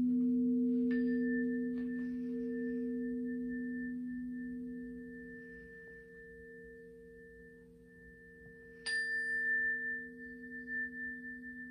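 A high-pitched healing chime is struck about a second in and again about nine seconds in, each time ringing a steady, pure high tone. Under it, a deeper ringing tone from an earlier strike slowly fades away.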